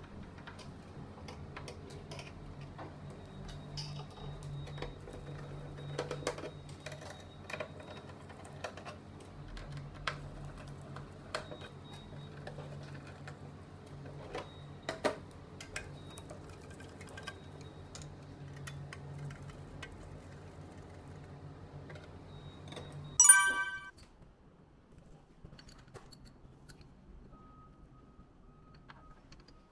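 Scattered small clicks and taps of a screwdriver working screws on a spectrophotometer's plastic cover, over a steady low hum. About 23 seconds in there is one short, loud metallic ringing clink.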